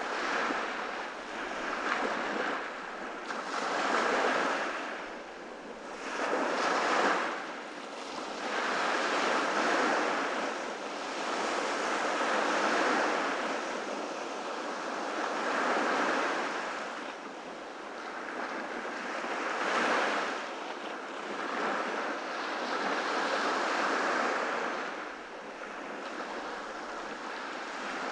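Ocean waves breaking and washing on a beach, the surf swelling and ebbing every few seconds.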